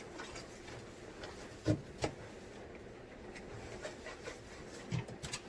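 A few short, light knocks and taps against a refrigerator's plastic interior as it is scrubbed clean, two about two seconds in and two near the end.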